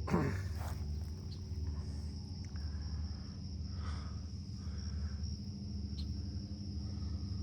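Steady, high-pitched insect chorus over a constant low rumble.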